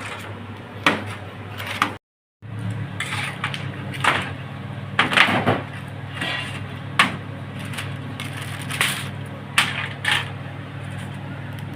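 Scattered short knocks and clatters, like things being handled, over a steady low hum, with a brief cut to silence about two seconds in.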